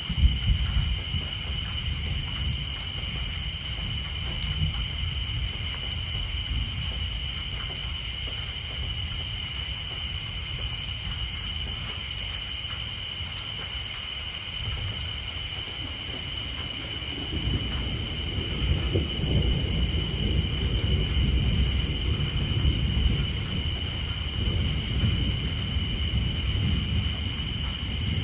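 Thunder rumbling during a rainstorm, with a sharp peak right at the start and a longer, louder low rumble building a little past the middle. Under it, rain patters on a tin roof and a chorus of tree frogs trills steadily at a high pitch.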